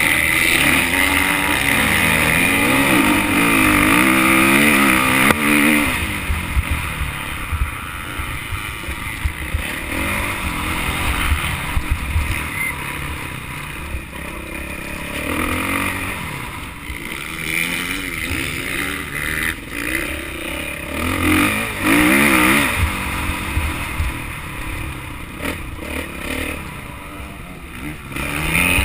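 Motocross bike engine revving up and falling back again and again as it is ridden round the track, loudest near the start and again about twenty seconds in, over a low rumbling noise.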